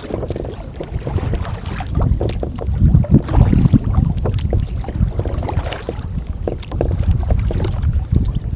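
Wind rumbling on the microphone on a kayak, with scattered knocks and taps, such as gear being handled against the hull.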